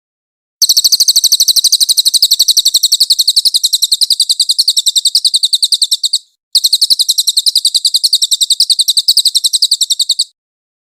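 A cililin songbird singing a long, fast run of very high, evenly repeated notes: its full 'nembak' song. The run breaks off briefly a little past the middle, resumes, and stops just before the end.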